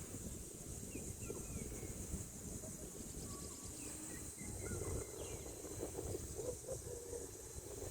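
Faint outdoor nature ambience: a steady high-pitched insect drone with a few short bird chirps scattered through, over a low rumble.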